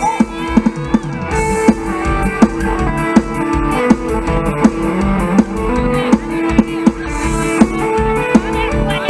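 Instrumental mor lam sing music: a plucked electric lead melody over a drum kit and bass with a steady beat.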